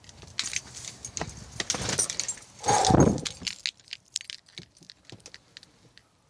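A set of car keys jangling and clicking in the hand, with a louder bump about three seconds in.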